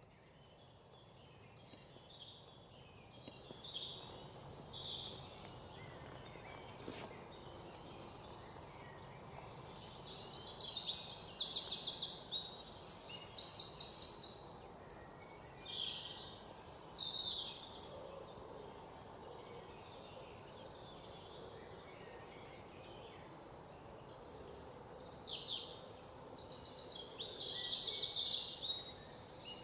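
Several birds chirping and calling over a faint steady ambient hiss, with fast trilled runs of repeated notes about a third of the way in and again near the end.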